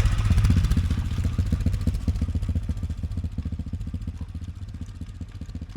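Single-cylinder engine of an AJP PR7 motorcycle running at low revs with an even low throb, growing gradually quieter.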